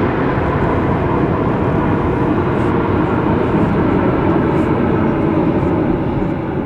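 Departing jet airliner's engines heard as a loud, steady rushing noise that begins to fade near the end.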